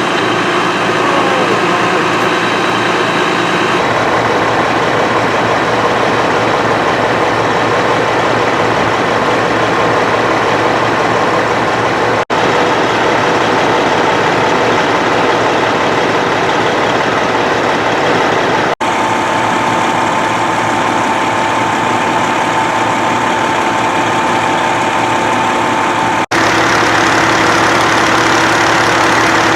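Fire engine's motor running steadily at the scene, a dense engine sound with a few held tones over it. The sound changes abruptly several times where clips are joined.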